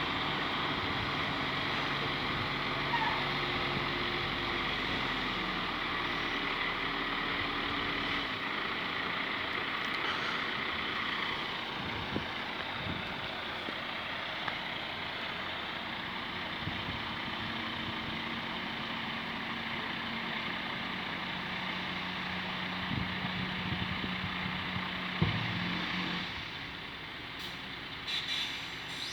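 Dump truck engine running steadily, with a few short knocks along the way.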